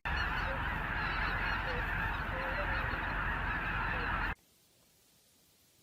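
A dense, steady clamour of many birds calling at once. It starts abruptly and cuts off suddenly a little over four seconds in, followed by silence.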